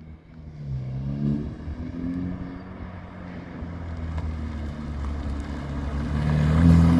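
Exhaust of a BMW 328i F30's turbocharged four-cylinder with the rear muffler deleted, running through dual 76 mm exits. The engine note rises briefly about a second in, settles, then climbs in pitch and grows steadily louder through the second half as the car accelerates.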